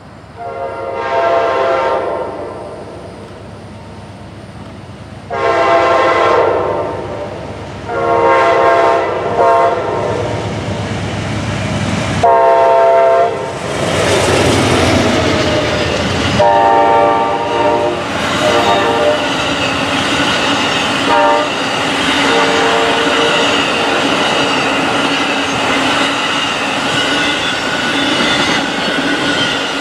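Amtrak Auto Train's GE Genesis locomotives sounding the air horn in a series of long and short blasts as the train approaches, then passing with engine rumble. The long autorack cars roll by with steady wheel clatter on the rails.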